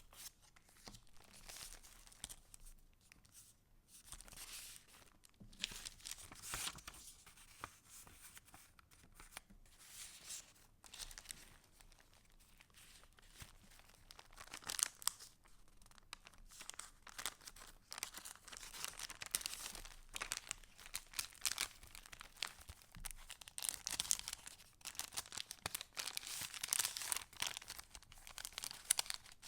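Paper rustling and crinkling as the pages and layered paper scraps of a handmade junk journal are handled and turned: irregular rustles and crackles, busier and louder in the second half.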